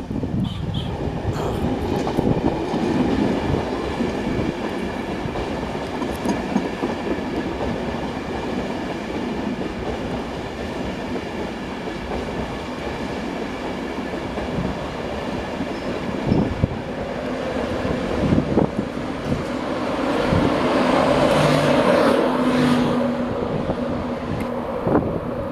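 Class 91 electric locomotive and its coaches running through the station: a steady rumble with a high whine and a few knocks of wheels over rail joints, growing louder about twenty seconds in.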